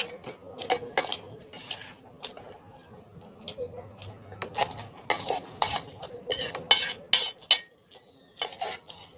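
Cutlery clinking and scraping against a dish in many short, irregular strokes.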